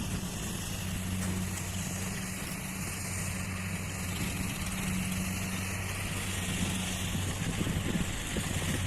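Heavy vehicle engine running steadily with a low, even hum.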